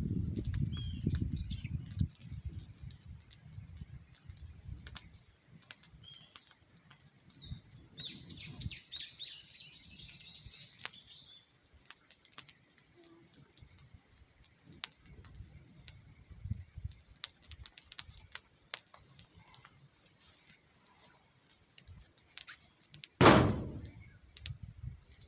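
Birds chirping outdoors, with a quick run of chirps about eight seconds in, over scattered small clicks and soft handling knocks. A single loud thump comes near the end.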